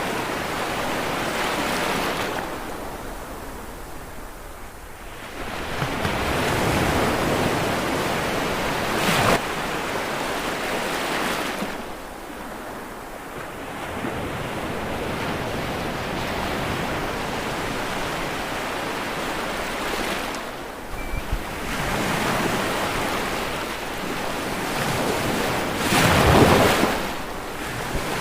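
Ocean surf: waves breaking and washing back in repeated surges every few seconds, with the loudest crash near the end.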